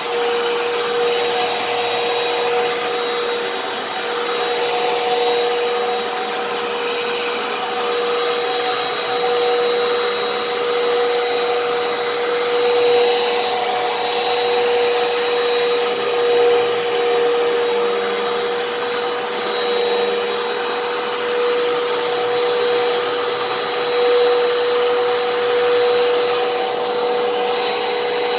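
Fantom Fury upright vacuum cleaner running continuously: a steady motor whine over a rushing hiss of air, with small swells in level.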